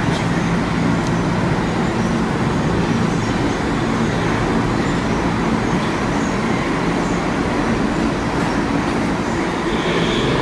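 Steady rumble and hum of a New York City subway train in the station, with no clear start or stop.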